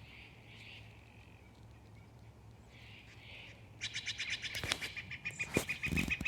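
Woodpecker calling: a rapid series of sharp, high notes, about five a second, starting about four seconds in. A couple of soft thumps fall near the end.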